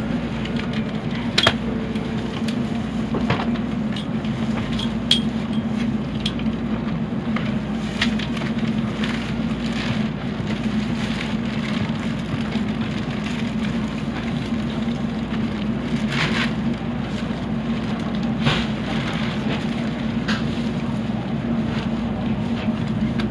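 N700 series Shinkansen running, heard from inside the passenger cabin: a steady rumble with a constant low hum, and a scattered few sharp clicks and knocks.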